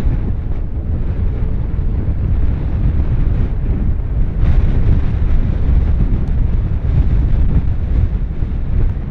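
Wind buffeting the microphone in a steady low rumble, with a brief louder rush of noise about four and a half seconds in.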